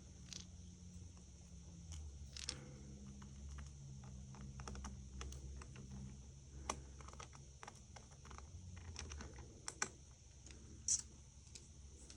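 Small hand tools clicking and tapping against the metal parts inside an iPhone 5 as a motherboard standoff is worked into place. The clicks are scattered and irregular, with a few sharper ones in the second half, over a faint low hum.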